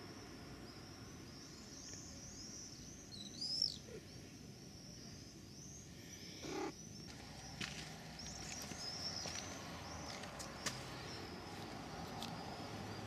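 Small birds twittering in high-pitched, continuous chirps, with one louder, sharper call about three and a half seconds in. A short lower-pitched sound comes about six and a half seconds in, and a few faint ticks follow.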